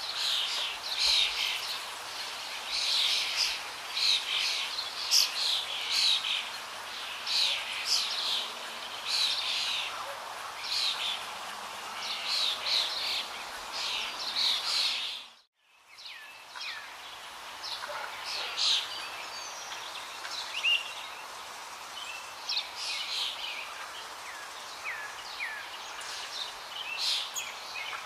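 Small birds chirping and calling over and over, quick high chirps over a steady background hiss. About halfway through, the sound fades out for a moment and comes back.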